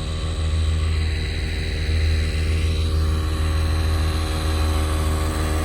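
A motor running steadily at one speed, giving a low, even drone.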